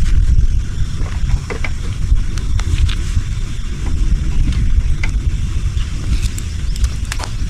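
Wind buffeting the microphone in a steady low rumble, with scattered light clicks and creaks.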